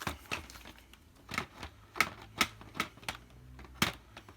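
A run of sharp plastic clicks and knocks, about eight, spaced unevenly: a Dyson DC50 upright vacuum's clear dust bin being handled and clipped back onto the machine.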